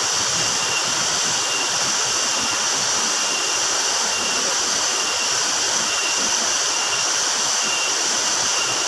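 Dolo waterfall: a steady, unbroken rush of falling water.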